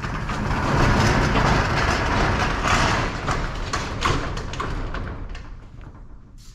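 A motor vehicle running loudly, with a deep rumble, and fading away over the last couple of seconds.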